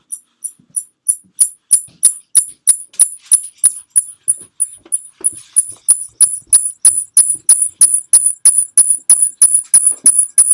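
A sharp, high-pitched chirping click repeating evenly about three times a second, growing louder after the first couple of seconds; it keeps going without a break.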